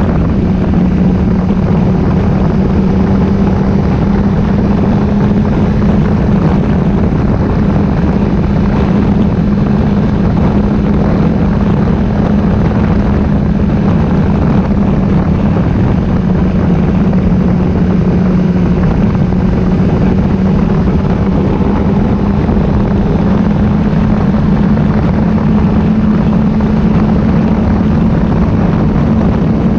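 Motorcycle engine running at a steady cruise, its drone wavering slightly in pitch, over a constant rushing noise.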